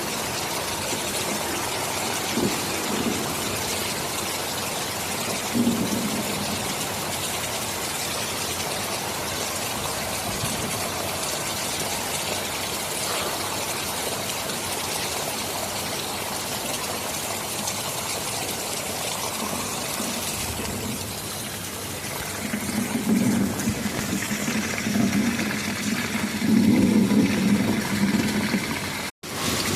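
Steady heavy rain with low rumbles of thunder, building to the loudest rolls near the end. The sound cuts out for an instant just before the end.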